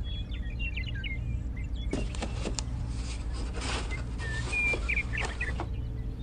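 Small birds chirping in short high notes over a steady low hum. From about two seconds in until shortly before the end, there is a rustle with light taps, as small plastic fence pieces are handled and set down on sand.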